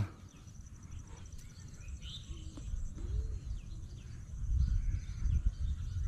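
A few faint bird chirps over a low, uneven rumble of wind on the microphone in an open field.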